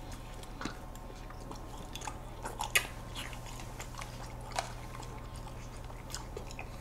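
Soft mouth sounds of two people chewing ice cream cake, with scattered small clicks, the sharpest about three seconds in.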